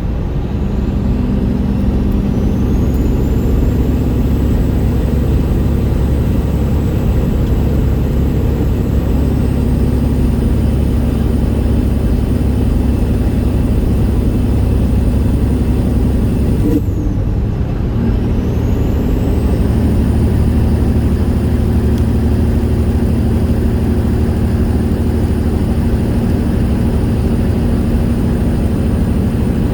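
Straight-piped Detroit 60 Series straight-six diesel in a 1999 Peterbilt 379, running loud and steady. About seventeen seconds in the sound briefly drops, as at a gear change, and then a high whistle climbs again and holds.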